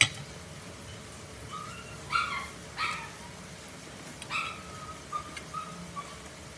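A dog yipping and whimpering: several short high calls, a couple drawn out a little longer. There is a sharp knock at the very start.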